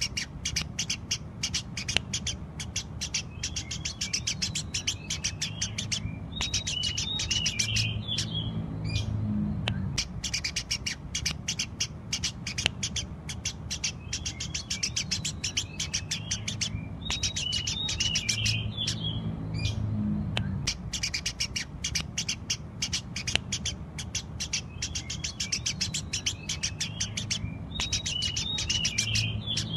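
Eurasian tree sparrows chirping busily: fast runs of short, sharp chirps, several a second, broken by brief pauses, over a steady low hum.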